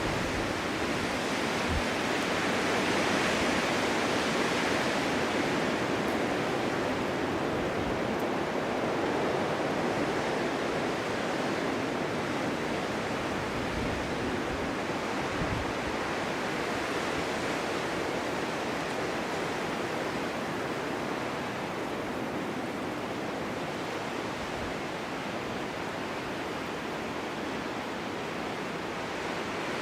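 Snowstorm wind blowing steadily, an even hiss that swells a few seconds in and then slowly eases.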